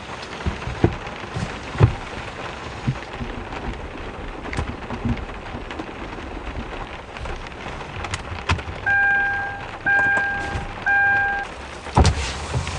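Heavy rain falling steadily, with scattered heavier drops thudding. A little past halfway come three short electronic beeps about a second apart, and near the end there is a loud thump.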